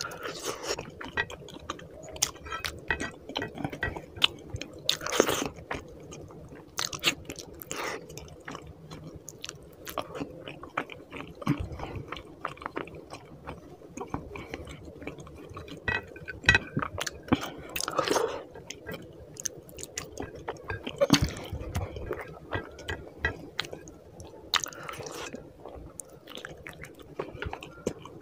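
A person eating rice and rohu fish curry by hand, chewing close to the microphone, with irregular sharp mouth clicks.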